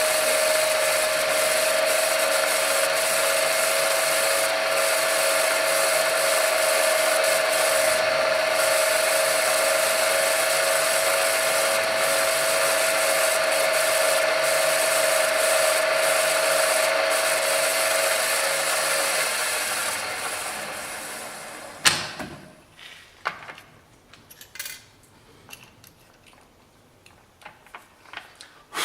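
Electric drill running steadily with a steady whine as a centre drill bores the hole in a workpiece held in a vise. It winds down about twenty seconds in, followed by a single sharp clack and a few light knocks.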